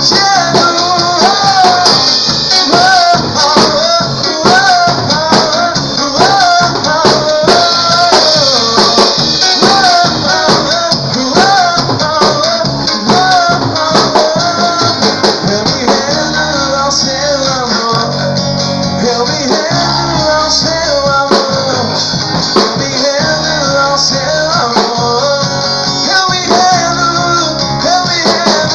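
A band playing a worship song with guitar and drum kit, a wavering lead melody carried over a steady beat.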